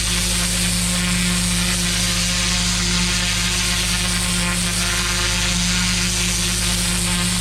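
Pressure washer running steadily: a constant engine or pump hum with the hiss of the water jet over it.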